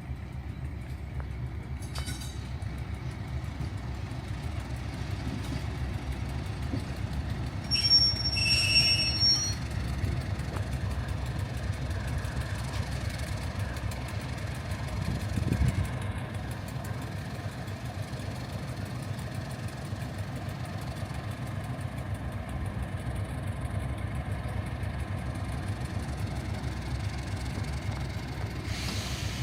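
Diesel-hauled heritage train running along the line with a steady low rumble. About eight seconds in, the wheels give a brief high-pitched squeal.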